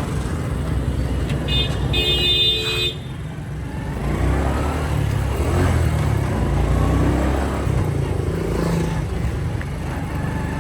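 Motorcycle riding through street traffic with a steady low engine rumble; a vehicle horn sounds once for about a second and a half near the start.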